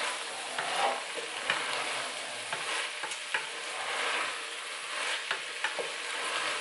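Diced vegetables and bacon sizzling in olive oil in a pot while a wooden spatula stirs them, with scattered light scrapes and knocks against the pot.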